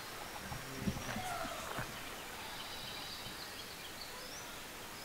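Quiet outdoor ambience with distant birds calling: thin whistled notes early on, then a higher chirping call through the middle.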